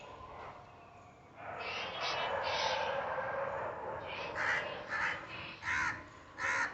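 Parrots giving harsh calls: a dense overlapping chorus for a couple of seconds, then four loud separate calls in quick succession near the end.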